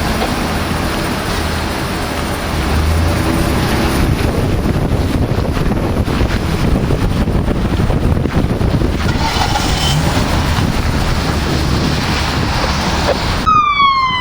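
Steady rushing road and vehicle noise, with a faint siren briefly audible about nine seconds in. Near the end the sound changes abruptly to a loud emergency vehicle siren falling in pitch.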